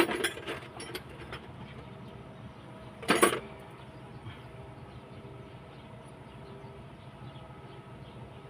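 Small metal parts clinking and rattling while a washer is hunted for, with one louder metallic clatter about three seconds in, over a steady low hum.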